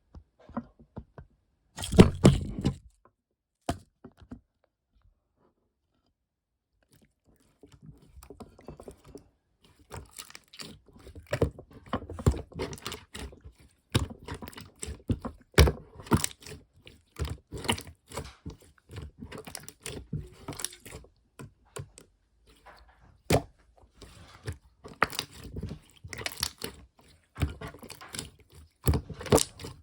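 Slime being handled by hand: a loud squish near the start, then a few seconds of quiet, then a long run of sticky clicks, crackles and pops as it is squeezed and pressed.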